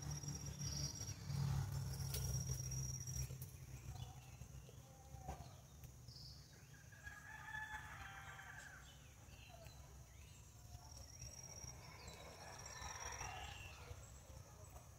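Birds calling: short high chirps, and two longer calls about seven and twelve seconds in, over a low rumble that is strongest in the first few seconds.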